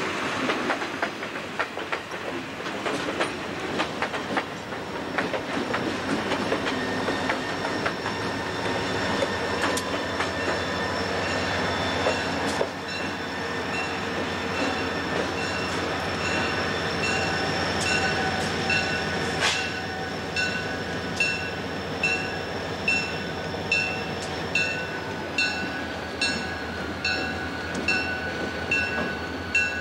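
Slow-moving freight train passing close by: wheels clicking over rail joints and flanges squealing on the curve, with a single sharp clank about two-thirds through. From about halfway a diesel locomotive's bell rings steadily, a little more than once a second.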